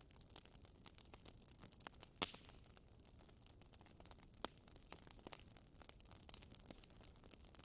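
Wood fire crackling in a fireplace: quiet, irregular snaps and pops over a faint hiss, with a louder pop a little over two seconds in and another near the middle.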